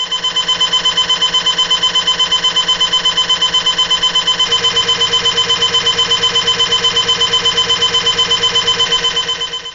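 MRI scanner's gradient coils sounding through a head-scan sequence: a loud, rapid, even pulsing of about ten beats a second with a shrill steady tone on top. About halfway through, a lower tone joins in.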